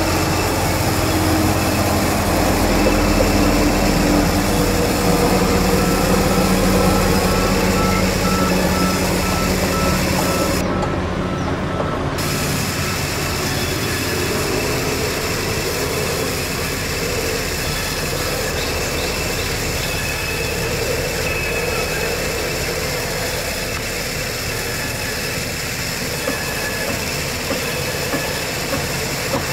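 Sawmill machinery running steadily: a continuous engine-like drone with steady whining tones, its high end briefly cut off about eleven seconds in.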